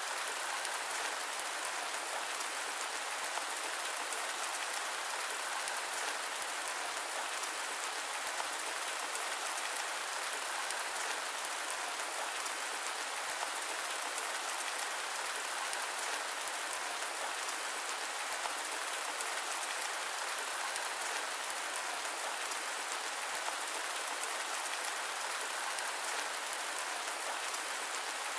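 Steady rain falling, a dense even patter of drops with no thunder and no low rumble.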